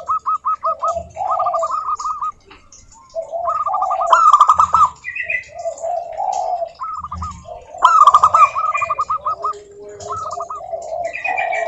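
Zebra doves (perkutut) singing: phrases of rapid, repeated cooing notes, one after another with short gaps.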